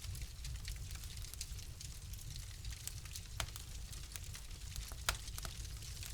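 Wood fire crackling in a fireplace: a steady patter of small snaps over a low rumble, with two louder pops about three and a half and five seconds in.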